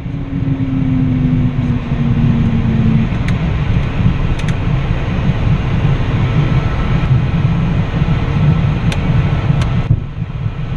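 Embraer Phenom 300 business jet heard from inside the cockpit: a loud, steady low rumble. A tone falls slightly in pitch over the first three seconds, and a few sharp clicks come later.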